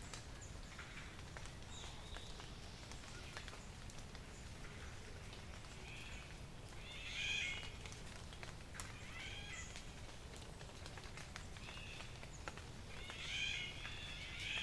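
Wild birds singing in a forest at dawn: a bright song phrase about seven seconds in and another near the end, with fainter scattered calls between, over a low steady rumble.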